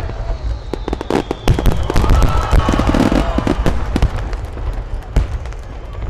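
Aerial fireworks display: rapid crackling and popping over deep booms of shells bursting, thinning a little near the end.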